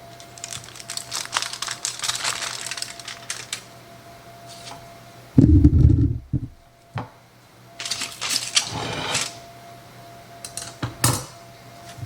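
Kitchen handling sounds: dishes and utensils clinking and rustling, with one loud low thump about five and a half seconds in. A faint steady hum runs underneath.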